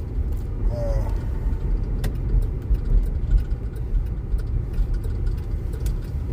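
Steady low rumble of a car driving, with a brief short pitched sound about a second in and a single click about two seconds in.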